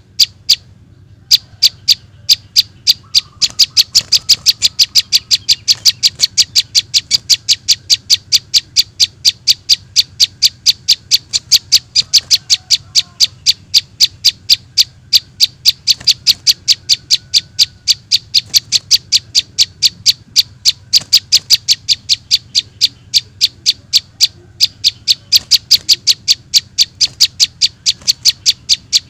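Juvenile prinia (prenjak) calls, used as a bird-trapping lure: sharp, high-pitched chirps repeated evenly at about four a second, with a short break about a second in.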